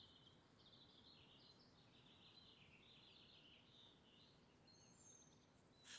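Near silence: faint distant birdsong over quiet outdoor ambience.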